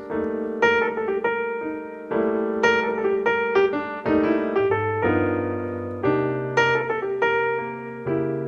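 Background piano music: a gentle, slow melody of ringing notes over a held bass line.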